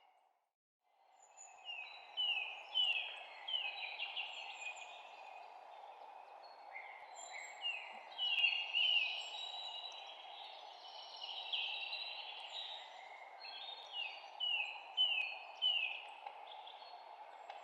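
Songbirds chirping: repeated runs of short, falling notes in clusters, over a steady background hiss. The sound drops out briefly at the very start and fades back in about a second in.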